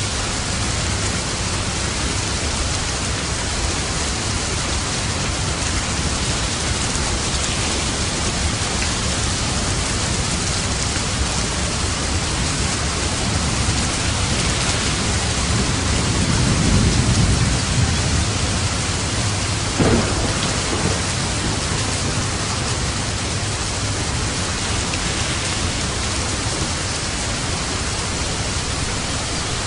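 Steady rain falling, with a low rumble of thunder swelling and fading around the middle and a short sharp crack about twenty seconds in.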